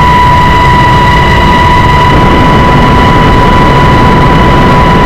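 Coast Guard rescue helicopter heard from inside the cabin: loud, steady engine and rotor noise with a constant high-pitched whine over it.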